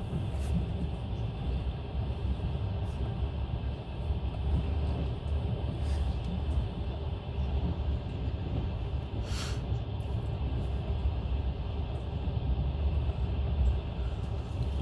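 Passenger train running along the track with a steady low rumble; a brief hiss cuts through about nine seconds in.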